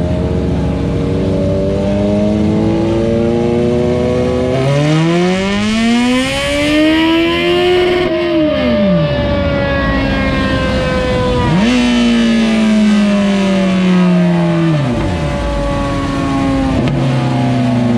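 Sport motorcycle engine running and revving: it holds steady, climbs in pitch over about three seconds, drops off sharply, then revs up and falls away again twice more.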